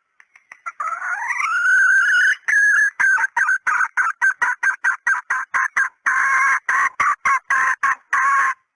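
Female red junglefowl calling, as played for a hunting decoy: a rising squealing note, then a fast run of short clucks, about four or five a second, that stops abruptly near the end.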